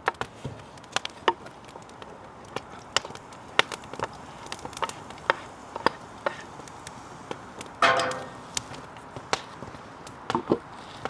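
Sharp clicks and knocks coming at irregular intervals, with a brief pitched squeak about eight seconds in that is the loudest sound.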